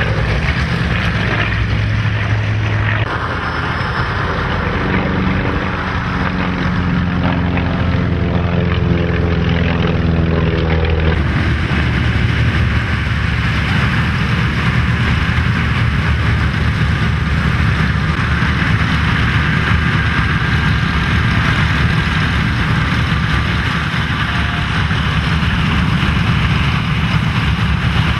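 Piston engines of a propeller aircraft running loudly and steadily. The engine tone shifts about three seconds in and again about eleven seconds in, after which the sound is noisier.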